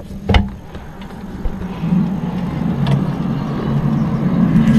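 A sharp click as a window is opened, then a steady low droning noise from outside that fades in about two seconds in and grows louder; the listener can't place it and calls it really strange.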